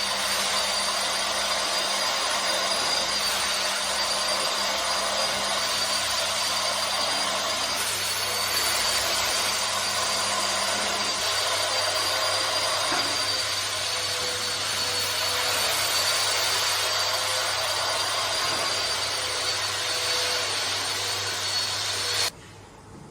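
Motorized carpet-cleaning machine running steadily, a rushing noise with a high steady whine, cutting off suddenly near the end.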